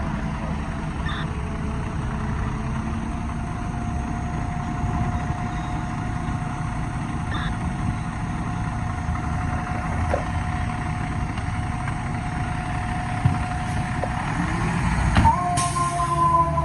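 Seagrave fire apparatus diesel engine idling with a steady low rumble, a thin steady tone running over it. About 15 s in there is a sharp air-brake hiss. Just after that, two high siren tones start near the end as the rig sets off to respond.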